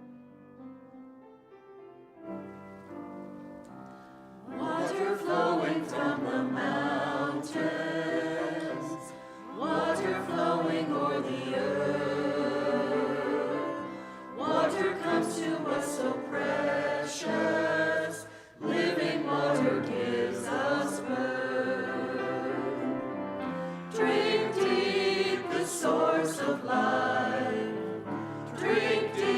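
Church choir singing an anthem with accompaniment. The singing comes in about four seconds in, after a few seconds of quiet sustained notes, and goes on in phrases with short breaths between them.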